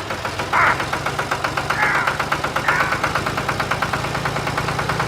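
Small mini tractor engine running at idle with a rapid, even chugging beat and a steady low hum.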